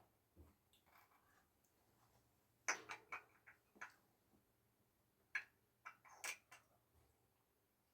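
Mostly quiet, with a handful of short light knocks and clicks: a small cluster about three seconds in and a few more a couple of seconds later.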